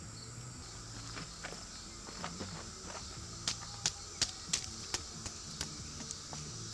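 Crickets or other insects chirping in a steady high haze. Over it come a dozen or so irregular sharp clicks and taps, most of them between about three and five seconds in.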